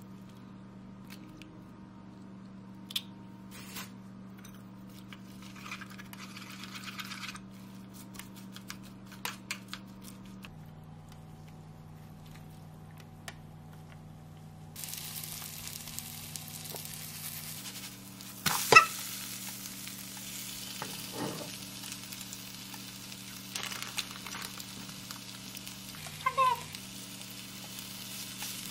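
Shredded cabbage frying in a pan, sizzling steadily from about halfway on, with a sharp ringing clink of a utensil against the pan about two-thirds through and a smaller one near the end. Before the sizzle starts there are soft rustles and light clicks as the shredded cabbage is handled.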